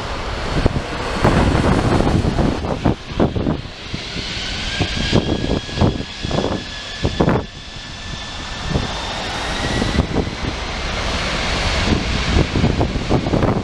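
Wide-body jet airliner's engines at close range: an uneven, loud rumble with a thin engine whine that rises slowly in pitch from a few seconds in.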